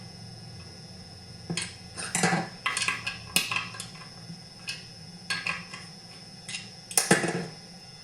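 Metal hand tools and chainsaw parts clinking and clanking during reassembly, in irregular sharp knocks that begin about one and a half seconds in, with the loudest near the middle and near the end.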